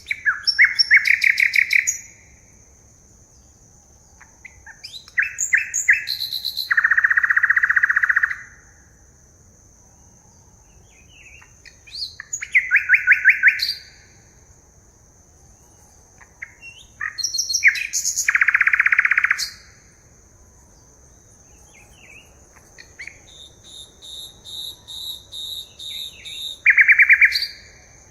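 Forest birds singing: loud rapid trilled phrases repeat about every five to six seconds, and near the end a run of quick repeated high notes builds up, over a steady high whine.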